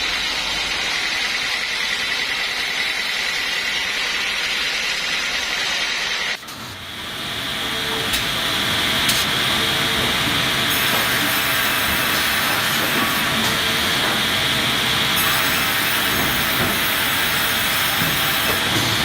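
Steady hissing machine noise that cuts off abruptly about six seconds in and gives way to another steady, higher-pitched hiss with a few faint clicks.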